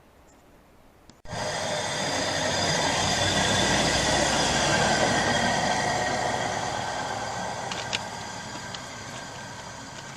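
A rail vehicle rolling past on the track, cutting in suddenly about a second in. Steady high ringing sits over the rumble, loudest in the middle and slowly fading.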